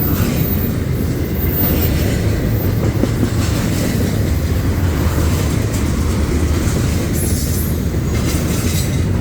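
A train rolling past, a steady low rumble of wheels on the rails.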